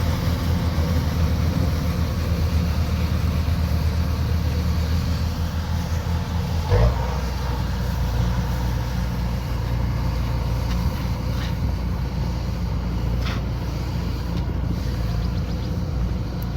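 Kubota combine harvester's diesel engine running steadily. A knock comes about seven seconds in, after which the engine note changes.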